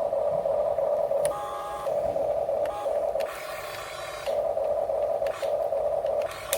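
Small electric motors of radio-controlled construction models whining, a steady buzzing tone that cuts out and resumes several times and shifts to a higher note about a second in and again near the end, as the controls are worked.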